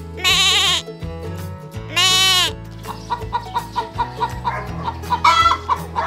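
A goat bleating twice, each bleat a loud quavering call, the second rising and falling in pitch. Then chickens clucking in short quick notes, about three or four a second, with a louder call near the end, over background music.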